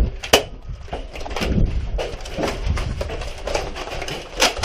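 Several sharp clacks of Nerf Rival blasters firing foam balls, a few seconds apart, over low rumbling movement noise.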